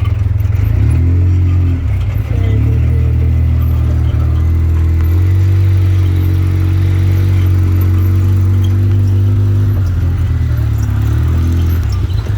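Off-road vehicle engine running steadily under way, a loud low drone whose pitch shifts a few times.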